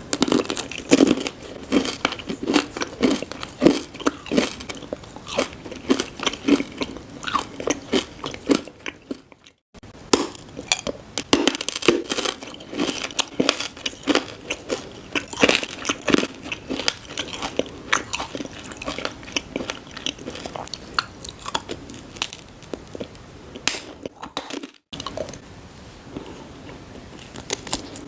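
Close-miked chewing and crunching of food, dense irregular bites and crackles, cutting out briefly twice.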